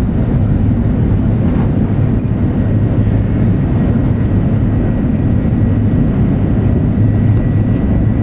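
Steady low rumble of an E7 series Shinkansen running at speed, heard inside the passenger cabin, with a brief high clicking about two seconds in.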